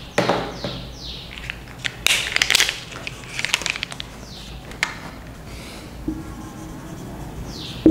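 Small birds chirping again and again, each chirp a short falling note, over rustling and handling noises that are loudest around two seconds in.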